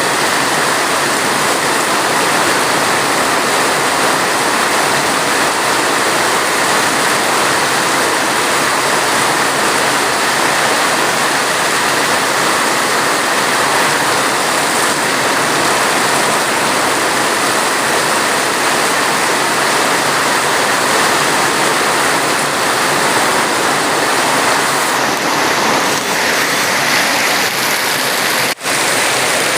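Steady, dense rain with an even rushing hiss and no distinct drops. The sound briefly drops out once about a second before the end.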